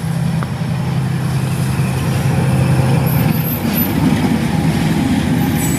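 Train passing close by over a level crossing: a loud, steady low drone for the first three seconds or so, then the rougher rumble of the cars going by.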